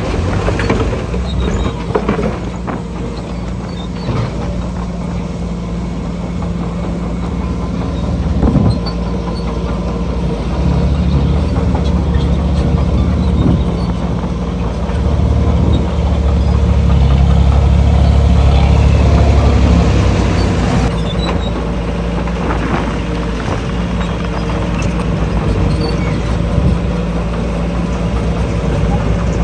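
Diesel engine of a heavy earthmoving machine running. It works harder and louder for about ten seconds midway, with scattered knocks and clanks over the drone.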